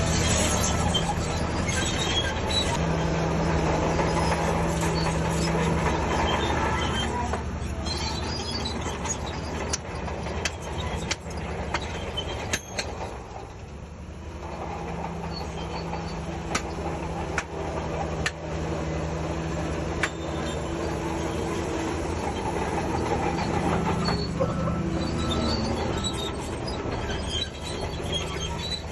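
Shantui DH17C3 crawler bulldozer at work: its diesel engine runs under changing load, swelling and easing, with the squeal and sharp clanks of its steel tracks, most clanks through the middle.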